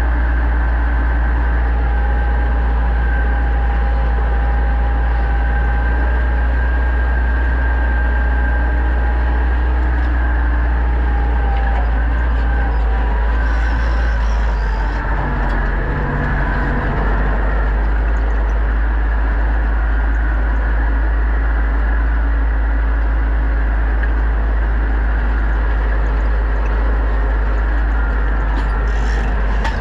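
Pronar 1025A tractor's diesel engine running steadily under load while ploughing, with a brief dip in the engine note about halfway through.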